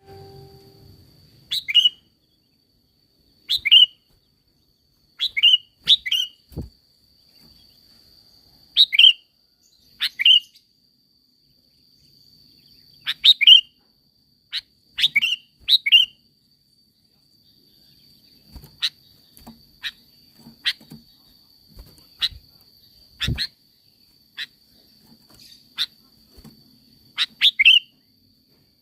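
Sooty-headed bulbul (kutilang) giving short, sharp calls, mostly in quick pairs, every couple of seconds, over a steady high whine.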